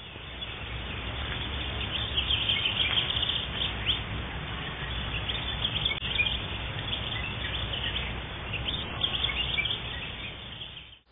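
Many birds chirping over a steady outdoor hiss and low rumble: a nature ambience of birdsong. It fades in at the start and cuts off abruptly at the end.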